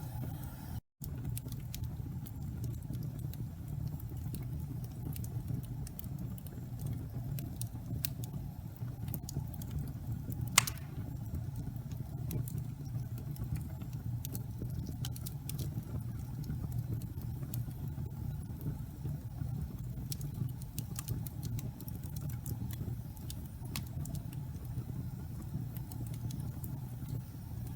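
Wood fire burning in a fireplace: a steady low rumble of the flames with scattered small crackles, and one sharp, louder pop about ten seconds in. The sound cuts out for a split second about a second in.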